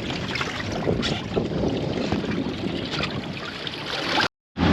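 Wind buffeting the microphone and water moving around a small boat at anchor, with a few faint knocks. The sound cuts out abruptly near the end.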